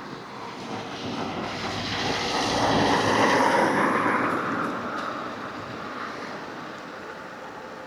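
Rushing road and wind noise of an e-bike ride, swelling to a loud peak about three seconds in and fading away again.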